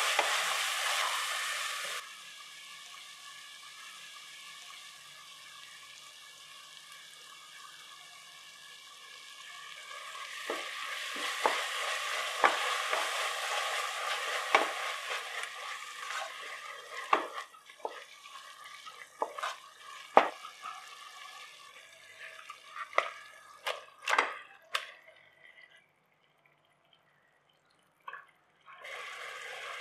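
Onion, tomato and mint masala frying in oil in a pressure cooker, sizzling while a wooden spatula stirs and scrapes the pot. The sizzle drops suddenly about two seconds in and swells again from about ten seconds. It then thins to scattered scrapes and taps of the spatula and a brief silence, and the sizzling returns just before the end.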